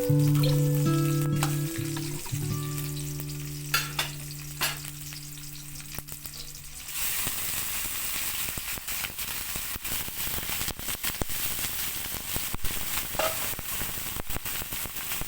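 Soft background music fades out over the first half. Then food sizzles steadily in hot oil in a pan, with frequent small pops and ticks.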